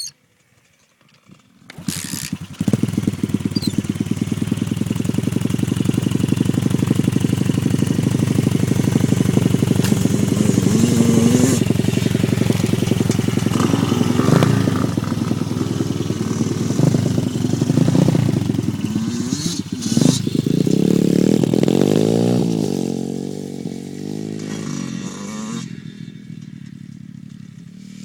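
Dirt bike engine starting up loud about two seconds in and running hard, its pitch swinging up and down with the throttle, then fading away over the last few seconds.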